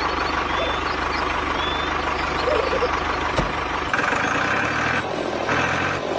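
A vehicle engine running steadily with a low, even throb; the sound changes character about four seconds in.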